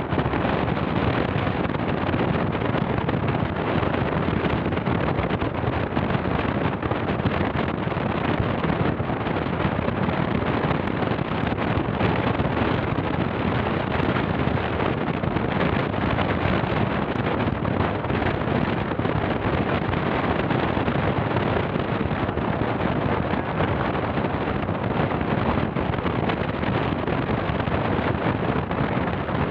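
Wind rushing over the microphone, a steady loud noise that never lets up.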